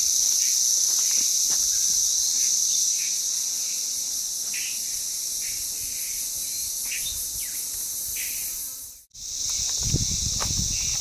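Steady high-pitched chorus of insects such as crickets or katydids, with short chirps repeating every half second or so beneath it. The sound drops out for an instant about nine seconds in, followed by low rumbling handling noise.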